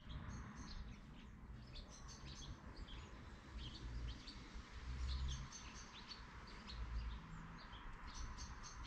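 Small birds chirping faintly in many short, high calls scattered throughout, over a quiet outdoor hiss. A few soft low rumbles come about five and seven seconds in.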